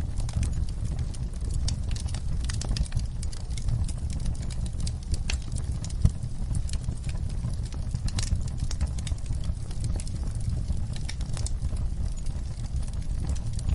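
Wood fire burning in a fireplace: irregular crackling and snapping over a steady low rumble of the flames, with one louder pop about six seconds in.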